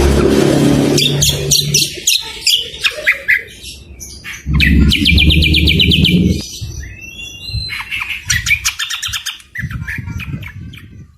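Greater green leafbird (cucak kombo) song mixed with other songbirds' calls: quick chirps, whistles and rapid trills. A loud, harsh, rough-voiced passage comes at the start and again about halfway through, and the birds grow quieter near the end.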